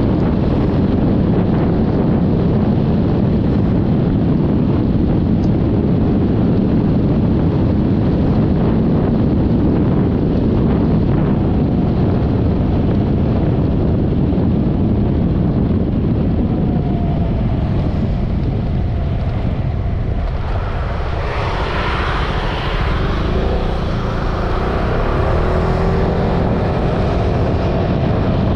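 Steady heavy wind rush over the microphone while riding a Yamaha XMAX 300 scooter, with engine and road noise beneath. About twenty seconds in, the low rush eases for several seconds and a brighter hiss with a few gliding tones comes in.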